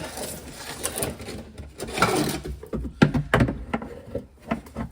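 Irregular clunks and scraping of gear being handled, with one sharp knock about three seconds in.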